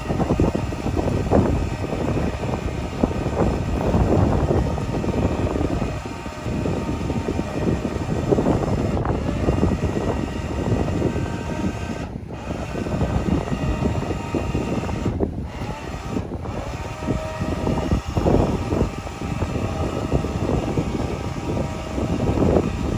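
Electric jack motors on a truck camper running as they lower the camper off the truck, under a loud, uneven low rumble.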